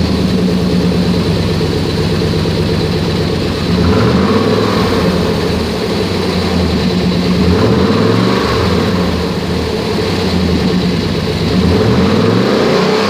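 1997 Chevrolet Silverado engine running at a steady idle, revved three times, its pitch rising and falling back about every four seconds.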